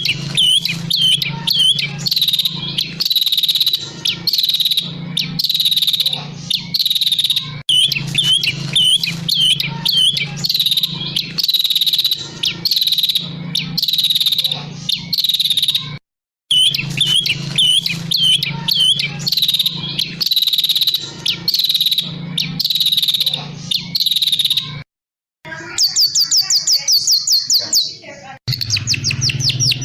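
Songbirds singing in an edited recording: a bird repeats a short, high, ringing phrase about once a second. About 26 seconds in, the recording cuts to a different bird giving a very fast rolling trill.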